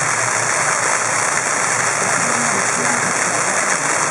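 Steady hissing noise over a low murmur of crowd voices.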